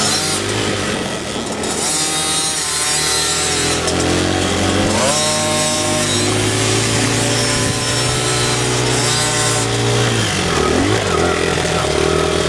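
Dirt bike engine running hard with a buzzy note, revving up sharply twice, about two and five seconds in, then dropping off and picking up again near the end.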